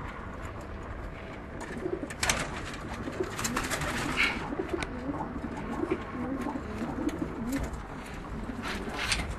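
Domestic pigeons cooing, a run of low, wavering coos lasting several seconds, with a few sharp clicks and rustles around them.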